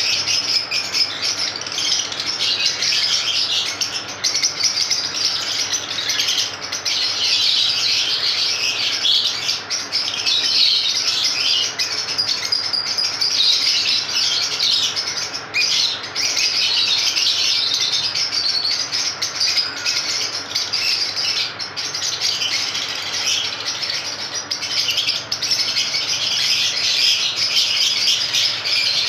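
A group of lovebirds chattering: a dense, steady stream of high-pitched chirps and tweets with no pause.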